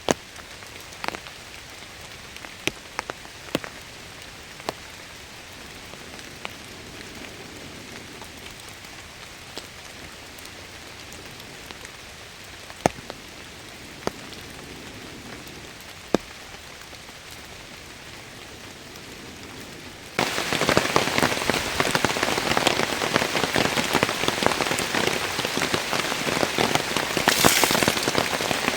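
Steady rain with scattered sharp drop hits. About two-thirds of the way through, it switches suddenly to much louder, heavier rain.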